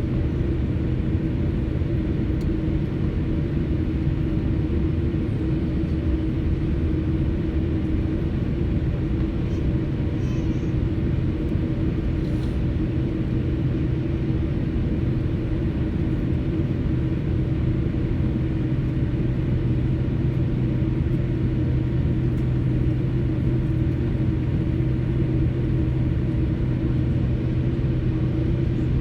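Steady low rumble and hum inside a jet airliner's cabin on the ground before takeoff, the engines running at idle.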